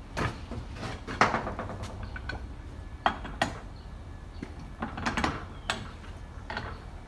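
Metal tools and hydraulic cylinder parts clinking and knocking: about seven separate sharp knocks spread over a few seconds, the loudest about a second in and about three seconds in.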